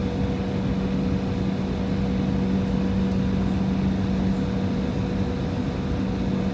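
Inside the cabin of an Embraer E175 airliner, its two General Electric CF34-8E5 turbofan engines run steadily, giving a constant drone with a low rumble and a steady low hum.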